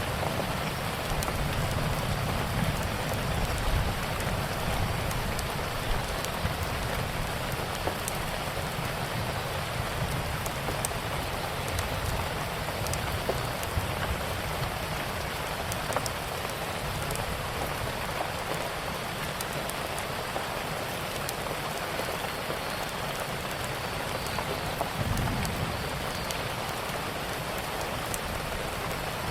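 Steady rain with scattered sharp pops and ticks over a low, uneven rumble.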